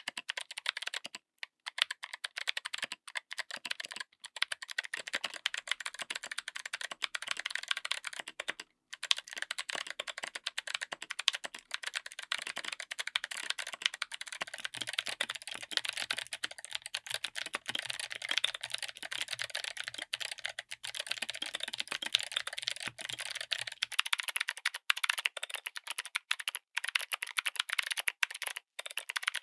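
Fast, continuous typing on a mechanical keyboard fitted with clicky switches: a dense run of sharp, crisp keystroke clicks with a few brief pauses.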